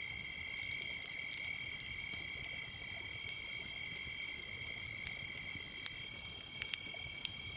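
Steady night chorus of crickets, a continuous high-pitched trilling in several layered bands, with scattered faint clicks.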